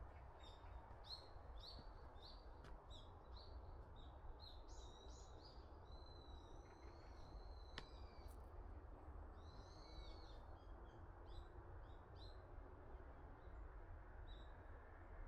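Faint songbirds calling in the woods: quick repeated high chirps, with a few longer arching notes in the middle, over a steady low background rumble.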